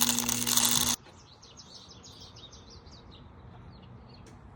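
Loud background music cuts off abruptly about a second in, leaving small birds chirping: a quick run of high chirps, then scattered single chirps.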